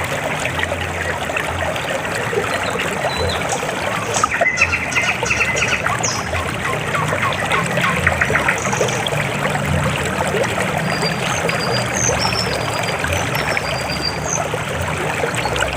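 River water flowing and trickling steadily. Birds chirp over it: a quick run of calls about five seconds in and a few brief high calls near the end.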